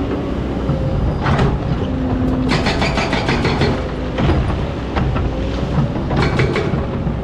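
Excavator's diesel engine running steadily, with repeated bursts of rapid metallic clattering a few times over.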